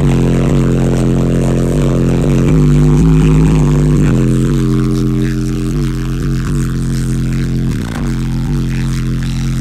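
High-powered car audio subwoofers playing a deep bass line at very high volume. The low notes are thick and buzzy and change pitch every second or so. The woofers are pushed hard on heavy amplifier power, to the point that they are soon smoking.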